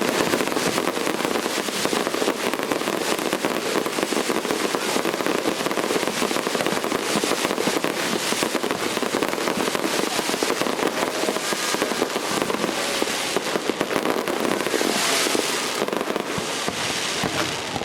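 Tezutsu hand-held tube fireworks spraying sparks: a loud, continuous rushing crackle that holds steady throughout.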